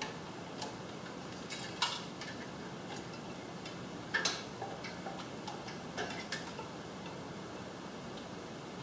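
Scattered small clicks and snaps of hand tools and plastic parts as a zip tie is nipped and clips are worked loose on a garage door opener's circuit board, the sharpest about two and four seconds in.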